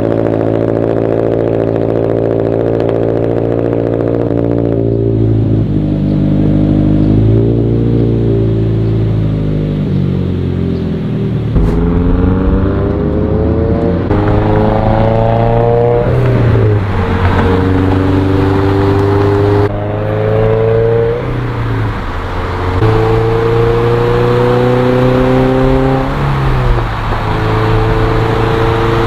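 Subaru BRZ (ZD8) flat-four exhausting through a Tomei full-titanium dual muffler. The car cruises steadily at first, then accelerates. The exhaust note climbs in pitch several times and drops back abruptly at each gear change.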